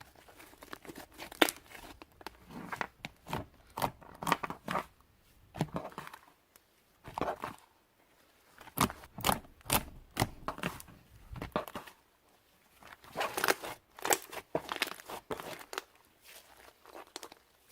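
Clay-mixed bubble slime being squeezed and stretched by hand, giving clusters of quick sharp pops and crackles as air pockets burst, with short pauses between handfuls.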